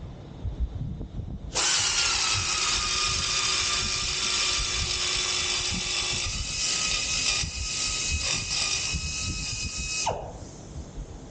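Small high-speed power tool cutting the boat's new switch panel: it starts about a second and a half in, runs steadily with a high whine, and winds down near the end.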